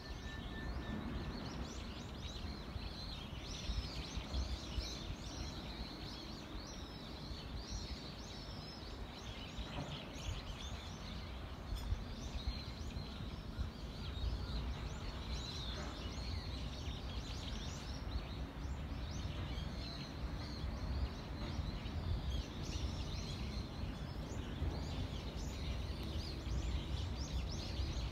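Small birds chirping and twittering, many short calls throughout, over a steady low rumble.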